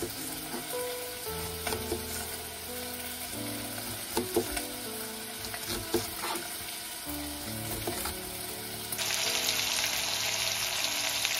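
Soft background music with a few sharp knife strikes as an onion is chopped on a cutting board. About nine seconds in, a steady sizzle takes over: bacon and onion frying in a stainless steel saucepan.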